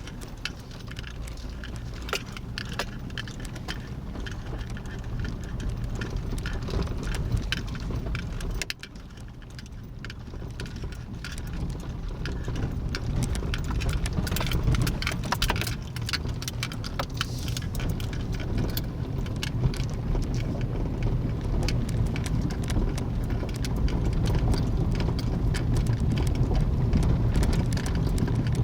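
Steady low rumble of a car, with a dense crackle of small clicks and taps over it. The sound drops briefly about nine seconds in, then builds gradually louder.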